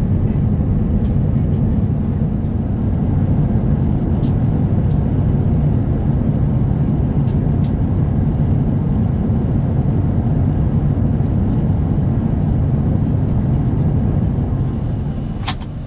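Steady airliner cabin noise inside an Airbus A350-900: a loud, even rumble of engines and airflow, easing slightly near the end. A sharp click comes just before the end.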